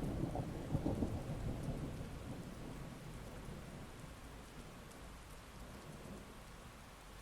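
Heavy rain falling steadily while a roll of thunder rumbles loudest in the first couple of seconds, then dies away, leaving the rain.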